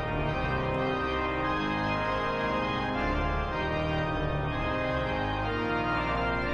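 Church organ playing the postlude after the dismissal: full sustained chords over a deep bass line, the harmony moving every second or so.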